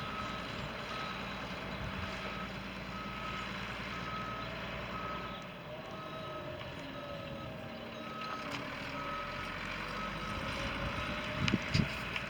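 Garbage truck's reversing alarm beeping at an even pace over the truck's running engine. The beeping stops near the end, and a few knocks follow.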